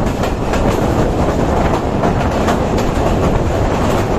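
Passenger train running at speed, heard from beside the coach: a steady rumble of wheels on the rails with irregular clickety-clack over the rail joints, as it rolls onto a steel truss bridge.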